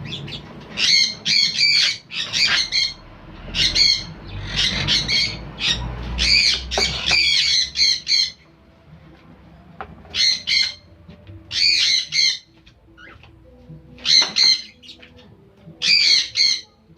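Caged parrots (cockatiels and a quaker parrot) squawking loudly, a rapid run of harsh calls for about eight seconds, then single squawks every second or two.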